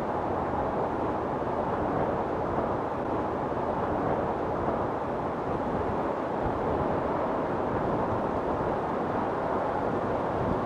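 Storm wind blowing steadily, a dense, even rushing noise with no separate gusts or impacts standing out.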